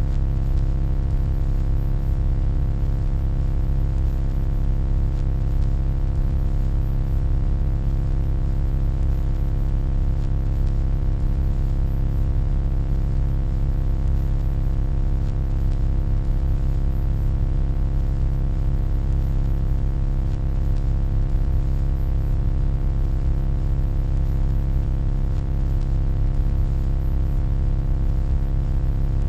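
Steady electronic hum: a deep, even low drone with a stack of fainter steady overtones above it, unchanging throughout.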